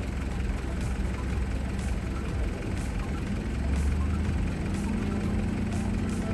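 Heavy diesel engine running steadily at idle, its note rising a little about four to five seconds in.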